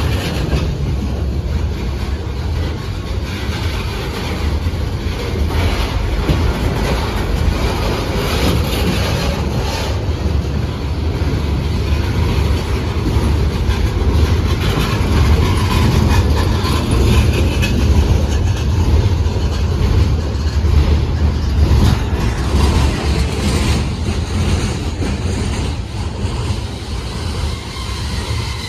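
Train running along the track: a steady, loud rumble with wheel-on-rail noise.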